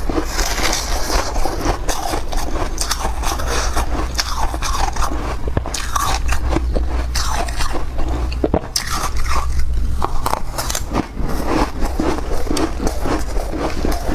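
Close-miked biting and chewing of soft freezer frost, with continuous dense crunching and crackling and some scraping.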